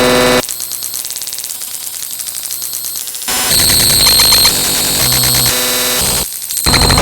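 Harsh electronic noise: layered buzzing tones over static, switching abruptly between patterns, quieter and rapidly pulsing for the first few seconds, then loud and dense.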